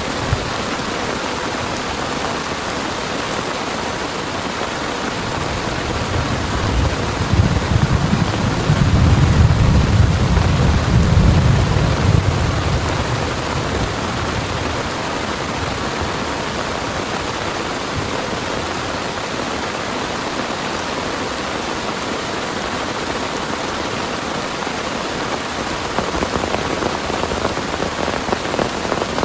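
Heavy rain falling steadily. A low rumble of thunder swells about seven seconds in and dies away by about thirteen seconds.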